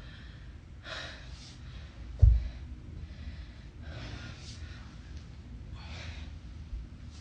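A person breathing hard during a workout: a series of short, forceful breaths every couple of seconds. A loud, deep thump comes about two seconds in, and a softer one near the end.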